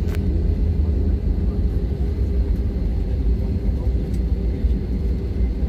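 Airliner cabin noise during landing: a steady low rumble of the engines, airflow and undercarriage, with a few faint clicks and rattles.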